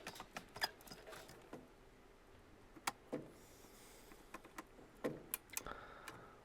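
Scattered faint clicks and taps of hand work on a furnace control board and its rigid plastic board holders, a few sharp ticks a second apart.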